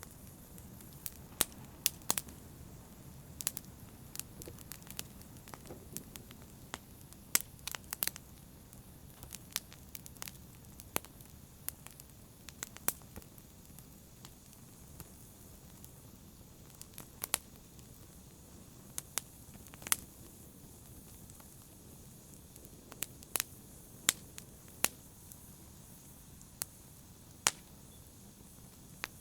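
Wood fire in a fireplace crackling: irregular sharp pops and snaps, a few of them louder, over a low steady rumble of burning.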